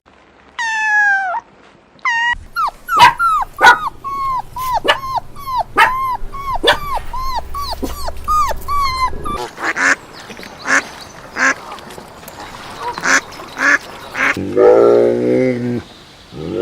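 A dog giving one long falling whine, then a run of short, high, falling calls at about two a second. This is followed by rougher duck quacks, and near the end a cow begins a low moo.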